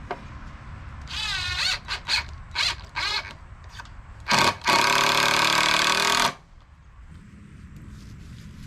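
Power drill driving screws into the wooden concrete form boards: several short bursts of the motor, then one steady run of about two seconds.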